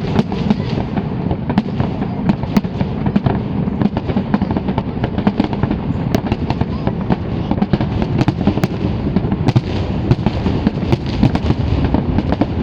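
Fireworks display: a continuous low rumble of bursts, dense with many sharp cracks and crackles.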